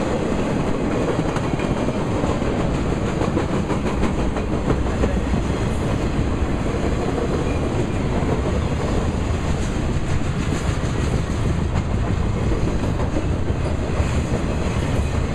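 Freight train flatcars rolling past at close range: a steady rumble of steel wheels on rail, with clickety-clack as the wheels cross the rail joints.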